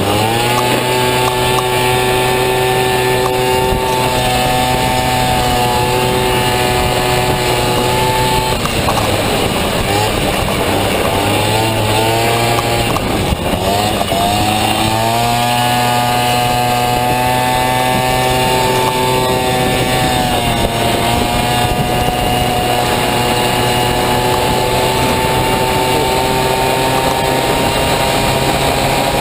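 Honda Dio two-stroke single-cylinder scooter engine in a Honda Motocompo running hard at high revs. It holds a steady pitch, eases off and falls around 9 seconds in, climbs back up between about 12 and 15 seconds, dips briefly near 20 seconds and then slowly rises again.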